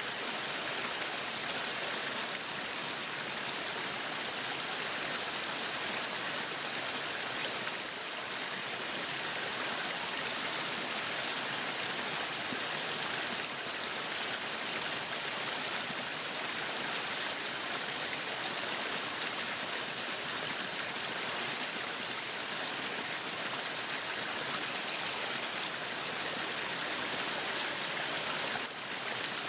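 Meat sizzling on a yakiniku grill: a steady, even hiss.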